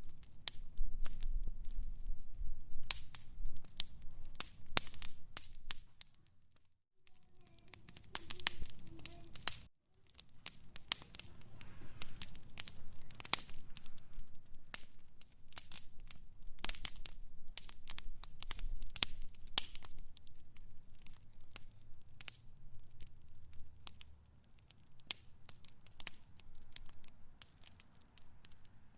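Wood fire crackling, with irregular sharp pops and snaps over a low rumble of flames. It drops out briefly twice, about six and ten seconds in.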